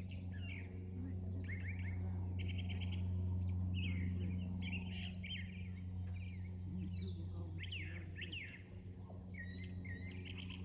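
Several birds chirping and calling in quick, overlapping short notes, over a steady low hum. A high buzzy trill comes in for about two seconds near the end.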